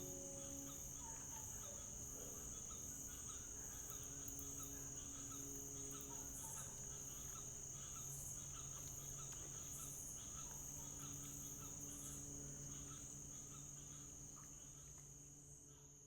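Insects chirring steadily in a high, even band, with faint scattered chirps and a faint low steady hum underneath; the sound fades out near the end.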